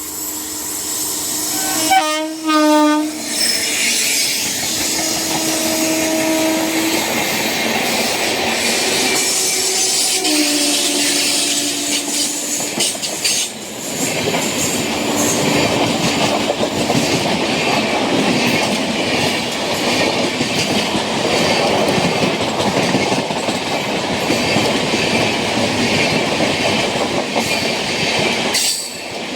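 Diesel locomotive horn sounding several times: a loud blast about two seconds in, then longer steady single-note blasts around six and eleven seconds and a fainter one near sixteen. After about fourteen seconds a passenger train is running past with a continuous loud rush and clickety-clack of wheels on the rails.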